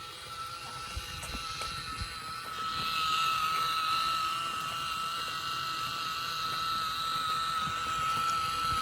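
Small DC electric motor of a homemade toy electric motorcycle running with a steady high whine, growing louder about three seconds in.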